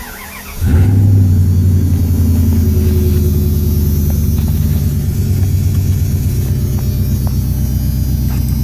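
1994 Dodge Ram's 5.2 L V8 cold-started in freezing weather: the starter cranks briefly, the engine catches under a second in and then runs on at a steady idle.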